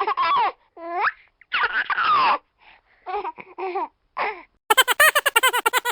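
Short recordings of people laughing, played one after another with brief silences between them. Near the end comes a run of rapid laughing pulses from a brighter-sounding recording.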